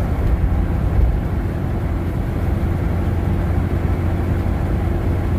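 Steady engine and road noise heard inside the cab of a moving pickup truck: an even low rumble with a faint steady hum above it.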